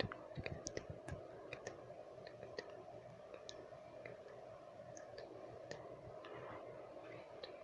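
Close-up wet mouth sounds: irregular tongue clicks and lip smacks, several in the first second or two and sparser after, over a steady background of noise.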